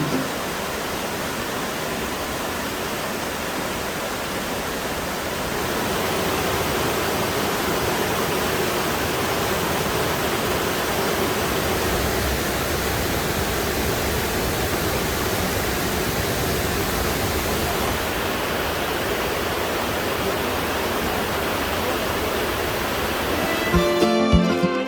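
Steady rush of water in a mountain valley stream, an even hiss that grows slightly louder about five seconds in. Guitar music comes back in near the end.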